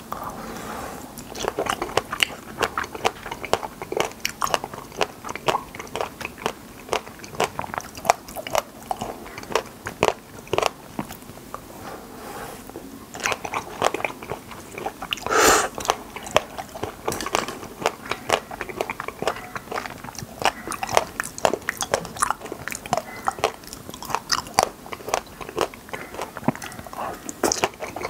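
Close-miked chewing of wild raspberries: a dense run of small wet clicks, smacks and crunches of the seeds, with one louder, longer noise about fifteen seconds in.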